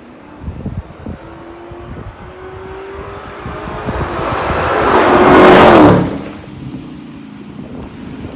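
2016 Dodge Challenger SRT Hellcat's supercharged 6.2-litre Hemi V8 driving past: a rising whine and exhaust note build for about five seconds, peak as the car passes, then drop in pitch and fall away quickly. Wind buffets the microphone.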